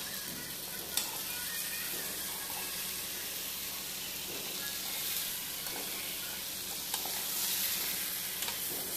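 Chicken pieces and onions frying in hot oil in a metal pot, a steady sizzle, while a flat metal spatula stirs them, knocking against the pot about a second in and again near seven seconds.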